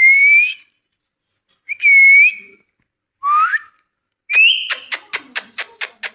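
Indian ringneck parakeet whistling: three short, separate whistles, each bending slightly upward. About four seconds in comes a louder call, followed by a rapid run of sharp clicks at about five a second.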